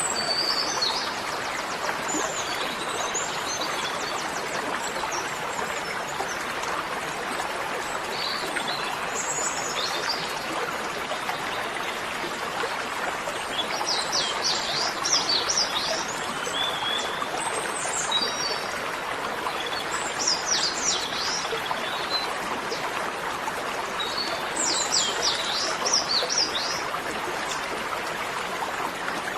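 Steady rush of running water like a stream, with birds chirping in short bursts of quick high notes every few seconds.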